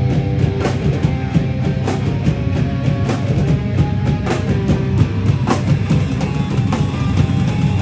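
Heavy band playing live and loud: distorted guitars and bass over a drum kit, with regular drum and cymbal hits.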